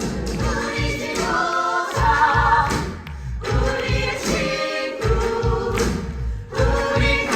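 A stage musical song: a group of voices singing together over backing music with a steady low beat.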